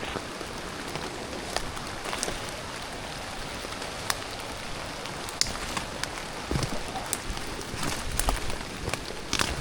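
Steady rain falling, with scattered sharp drips and taps of drops landing close by.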